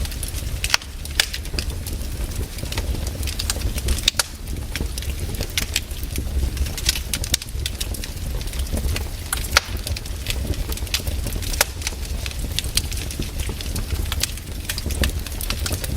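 Fireplace fire crackling: frequent irregular sharp pops and snaps over a steady low rumble of the flames.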